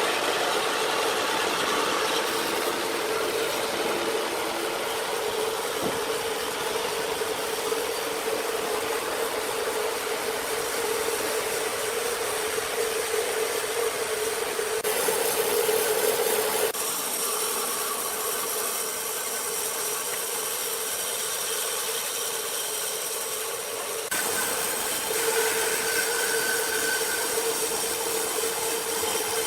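Sawmill machinery running steadily: a constant mid-pitched hum over a wide hiss. The sound shifts abruptly in character a few times.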